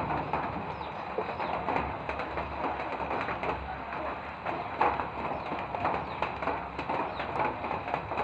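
Birds calling outdoors, many short scattered notes over a steady background hiss.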